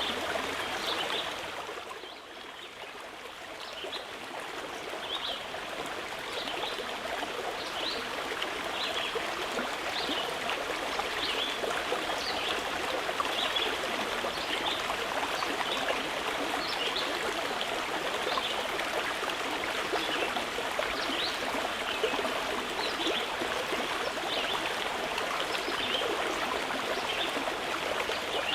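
Mountain river flowing steadily over rocks, with a bird repeating a short high call about once a second above it. The water sound dips briefly about two seconds in, then comes back.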